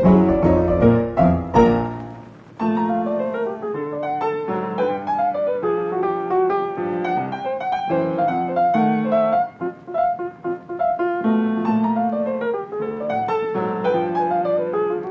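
Background piano music, a light melody of quick notes over chords, with a short pause a little after two seconds.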